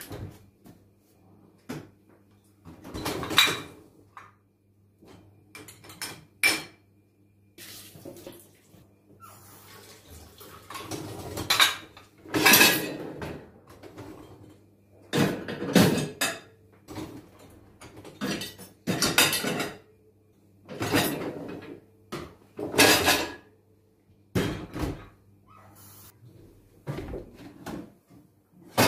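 Dishes and cutlery being handled: a dozen or so separate clinks, clatters and scrapes, some brief and some drawn out over about a second, over a faint steady low hum.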